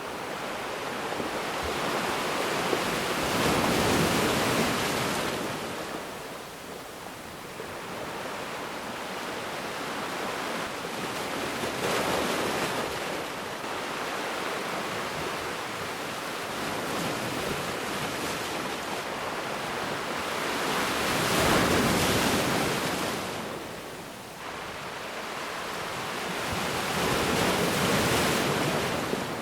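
Ocean waves breaking and washing on a beach, the surf swelling and fading in slow surges about every six to ten seconds.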